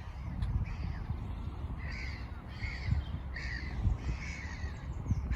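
Birds calling: a run of short, harsh, crow-like caws, about one to two a second, starting about a second in, over a steady low rumble.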